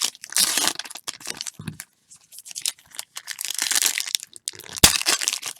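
Trading-card pack wrappers crinkling and tearing as packs of football cards are ripped open, in irregular crackles with short pauses and a sharp tap near the end.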